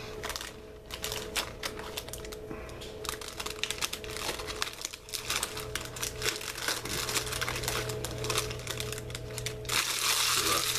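Close-up crunching and chewing of a thin, crispy mint cookie: an irregular run of small crisp cracks and crackles. Near the end a louder rustling hiss joins in.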